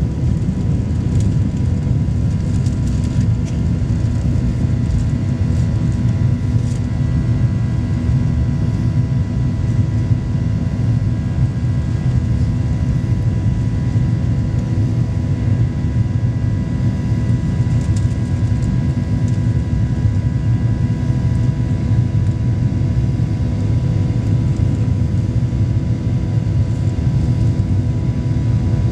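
Boeing 737 Next Generation jet engines running at steady power: a constant loud low rumble with steady whining tones layered over it, one of them growing stronger about seven seconds in.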